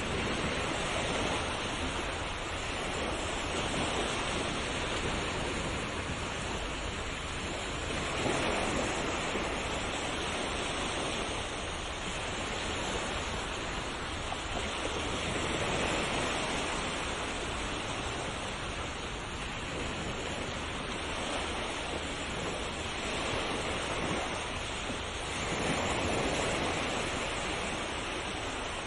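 Ocean surf: waves washing onto a shore in a continuous rush that swells and eases every few seconds.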